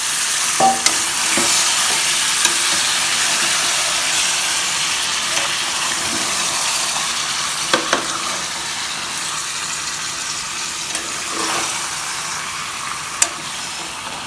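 Curd-marinated chicken pieces sizzling in hot oil and masala in an aluminium pressure cooker while a steel spatula stirs them, with a few sharp clicks of metal along the way.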